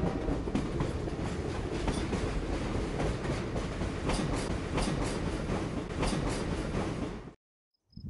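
A train running along the rails: a steady rumble with irregular clicks from the wheels over the rail joints. It cuts off suddenly about a second before the end.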